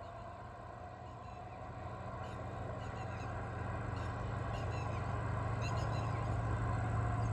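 A low, steady vehicle engine hum that grows gradually louder, with a few faint bird chirps in the middle.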